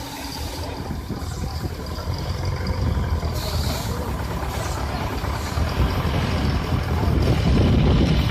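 Steam tractor running with a steady low rumble and a brief hiss about three seconds in, growing louder near the end.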